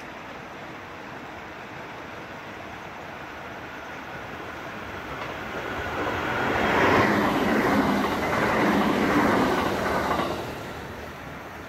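Local electric passenger train passing along the track, its wheels clattering over the rails. It swells in from about four seconds in, is loudest for a few seconds, then dies away quickly near the end.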